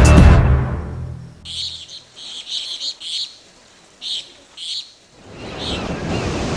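Music fading out, then a bird chirping in short repeated calls, followed near the end by a rush of noise that swells and fades.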